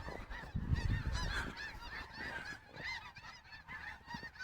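A large flock of geese calling, many short overlapping honks at once; the uploader thinks they are snow geese. A brief low rumble comes about half a second in.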